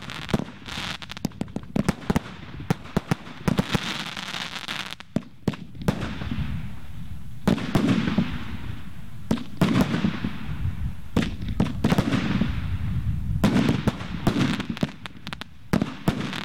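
Multi-shot firework barrage firing. A rapid run of launch pops and bursts over a crackling hiss comes first; from about six seconds in, heavier deep booms follow every second or two, each trailing off in a fading hiss, and quick shots pick up again near the end.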